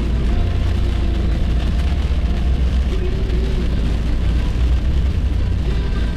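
Steady low rumble of road and engine noise from a car travelling at highway speed, heard from inside the cabin.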